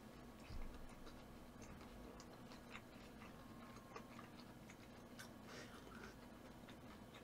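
Near silence with faint, scattered small clicks of eating, chewing and mouth sounds, over a low steady hum.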